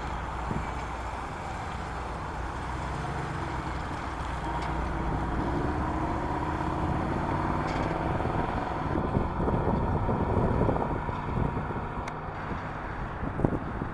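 Cadillac Allante's 4.5-litre V8 running, rising in pitch from about four seconds in as it picks up speed, then louder and rougher for a couple of seconds near the middle, with a sharp click near the end.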